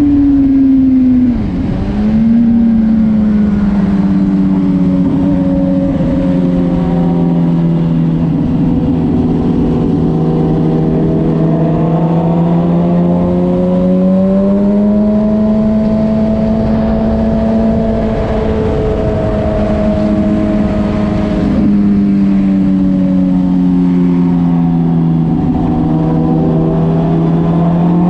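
Motorcycle engine running under way. Its pitch drops sharply about a second in, like an upshift, climbs as it accelerates around the middle, drops again a little past two-thirds through and rises once more near the end.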